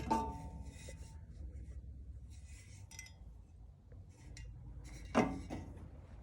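Two metallic clanks, the first with a short ringing tone and the second, about five seconds in, louder, with light rattling and rubbing of metal between them.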